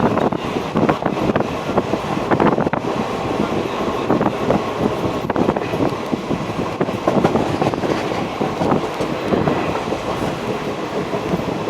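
Passenger express train running at speed: a steady rumble of wheels on the rails, with frequent irregular clicks and clacks.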